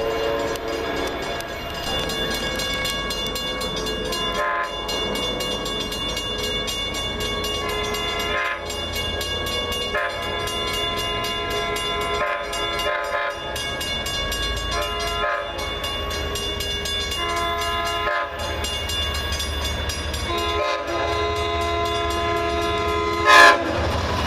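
A passing train's multi-tone air horn sounding a long series of blasts, each held one to four seconds with short breaks between, over the low rumble of the train. A brief, sharp, loud noise comes just before the end.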